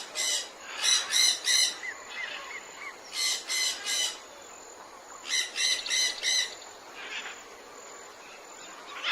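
A bird giving harsh, rapid squawking calls in four short bursts of a few notes each, with a few small chirps in between, against a quiet forest background.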